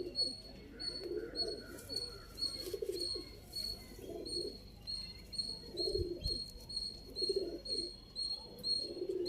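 Domestic pigeons cooing, a low coo repeating about every second or so, with a faint, high, regular chirping behind it.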